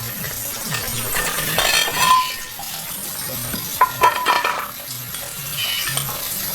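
Food sizzling with a steady hiss while utensils clink against dishes, a few quick clinks coming about four seconds in.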